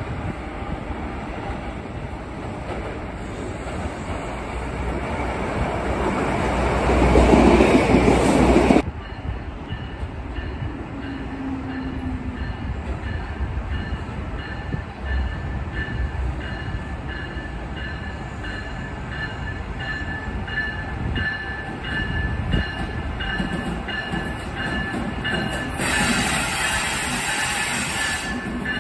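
Electric passenger trains on the Northeast Corridor. First, a train running past close by makes a rising rush of wheel and track noise that cuts off abruptly about nine seconds in. Then an Amtrak train led by a Siemens ACS-64 electric locomotive approaches round the curve with a steady high whine over a low rumble, growing louder near the end.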